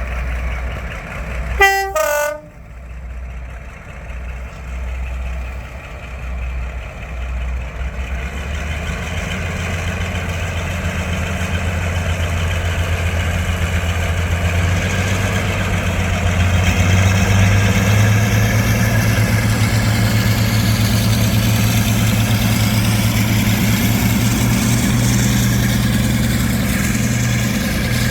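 A diesel locomotive gives a short two-note horn toot, higher note then lower. Its engine then grows louder over several seconds and settles into a steady low drone.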